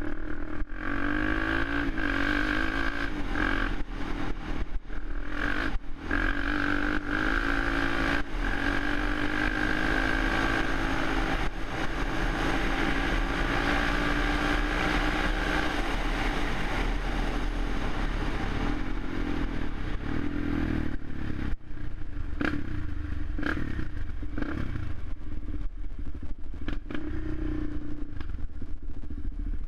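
Suzuki LTZ 400 quad's single-cylinder four-stroke engine running, its revs rising and falling.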